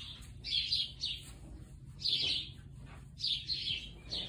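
Small birds chirping in short clusters of high chirps, about one cluster a second.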